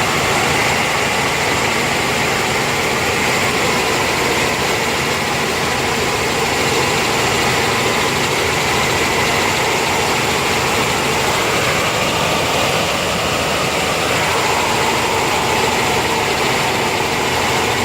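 Helicopter cabin noise in flight: a loud, steady engine and rotor drone with a steady high whine over it.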